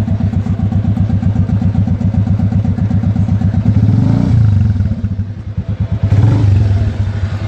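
Bajaj Avenger 220cc single-cylinder motorcycle engine running through dual silencers at a pulsing idle. It is revved up twice, about four seconds in and again near the end, falling back to idle each time.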